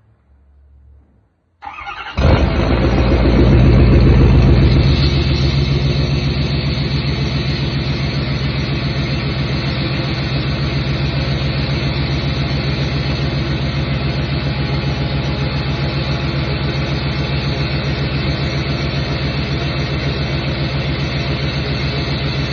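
Ford 6.7 L Power Stroke V8 turbodiesel cold-starting: it cranks briefly and catches about two seconds in, flares loudest for a few seconds, then settles into a steady cold idle.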